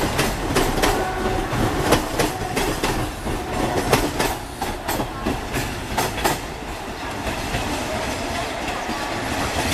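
Passenger train running past, its wheels clicking and knocking over rail joints in quick strings; the clicks thin out about six seconds in, leaving a steady rumble.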